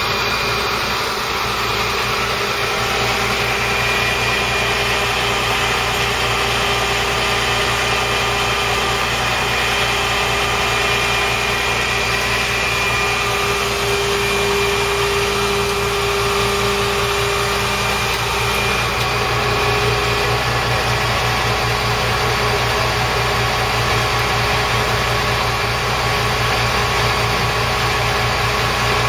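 Tow truck's engine running steadily at a constant speed.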